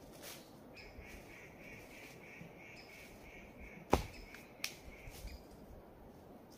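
A bird calling in a high, rapid series of evenly spaced notes at a steady pitch, about four a second, for several seconds. A single sharp knock about four seconds in, followed by a few lighter clicks.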